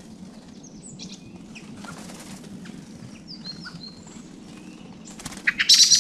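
Small songbirds at a winter feeding spot giving short high chirps and calls, with brief wing flutters. About five seconds in comes a loud, rapid rattling burst close by, the loudest sound here.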